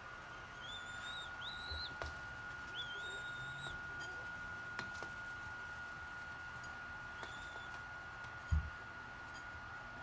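High, thin whistled bird peeps, five of them, each about half a second long and spread over the first eight seconds, with a few small clicks and a single low thump a second and a half before the end.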